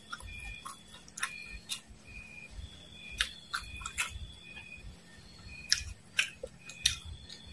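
Crisp, irregular crunches of fried dried worms and mole crickets being chewed with the mouth closed, and a sip from a small glass near the end. A faint, high chirping repeats evenly in the background.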